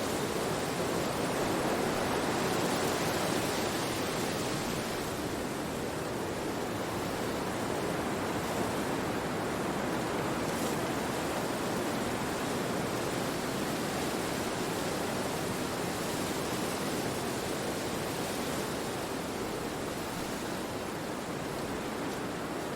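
Wind blowing through forest trees: a steady rushing hiss that swells a couple of seconds in and then slowly eases.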